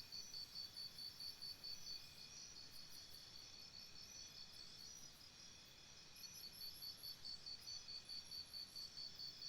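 Faint insect chorus: high, pulsed chirping several times a second, over a thinner steady background of other insect calls. The loud pulsed chirping drops away about two seconds in and returns about six seconds in.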